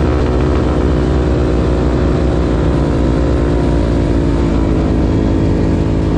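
Vehicle engine running steadily under way, its pitch easing slightly lower around the middle.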